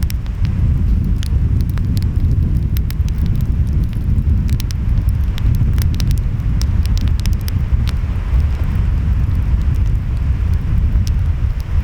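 Wood fire crackling, with many sharp pops scattered through, over a steady low rumble of waves and wind.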